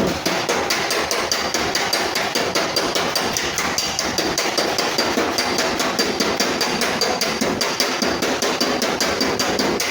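A body hammer tapping sheet metal rapidly and steadily, about six blows a second, with a ringing metallic note. The sound is typical of a dent being worked out of a car's steel fender panel.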